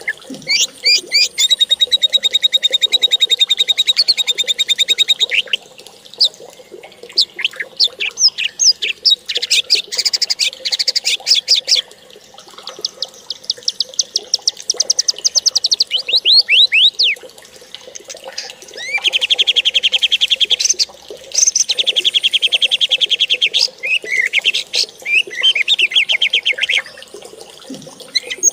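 A bird singing: rapid high trills and chirps in phrases of a few seconds each, with short pauses between them.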